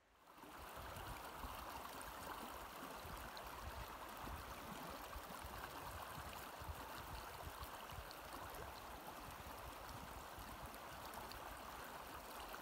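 Stream water running with a steady rushing hiss that fades in at the start.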